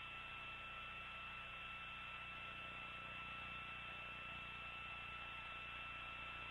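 Faint steady hiss and hum of an open radio communications channel, with a steady high tone held throughout.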